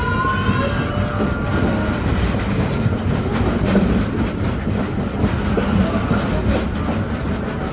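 Train running along the rails with a steady rumble and wheels clicking over the rail joints. A thin wheel squeal sounds in the first second or two and then fades.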